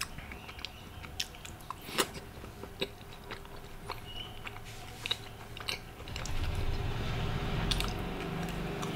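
Close-miked chewing of a bite of naan dipped in dal makhani, with wet mouth clicks and smacks. A low steady rumble comes in about six seconds in.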